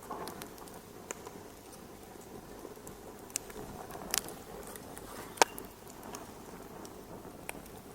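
Wood fire in a fireplace crackling: a soft steady hiss of burning with scattered, irregular sharp pops, the loudest about five and a half seconds in.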